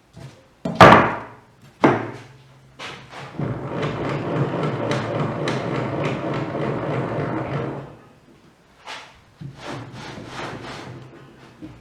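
Workshop knocks: two loud wooden knocks about a second apart, then a steady rattling noise with a low hum for about four seconds, followed by lighter scattered knocks.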